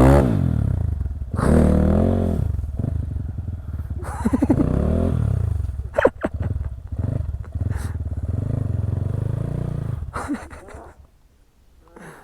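Motorcycle engines revving and accelerating, the pitch rising and falling several times, with a sharp click about six seconds in. The engine noise fades away near the end.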